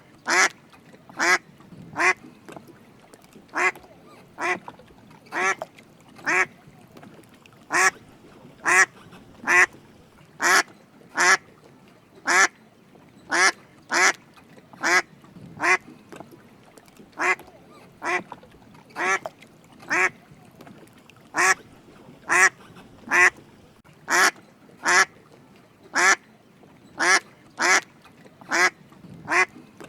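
Drake mallard quacking: short calls repeated steadily, about one every second.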